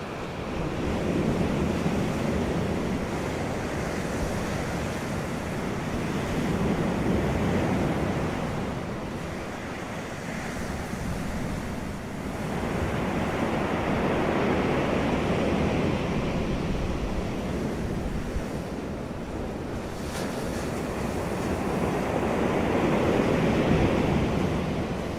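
Wind blowing with sea or lake surf, an even rush of noise that swells and eases in three long surges of several seconds each, with a low rumble of wind on the microphone.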